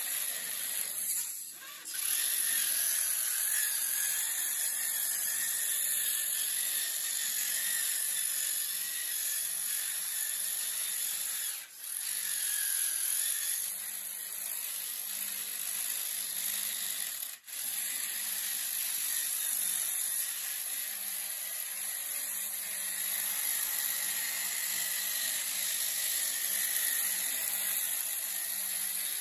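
A small handheld power tool running steadily with a high, noisy whine, cutting out briefly twice.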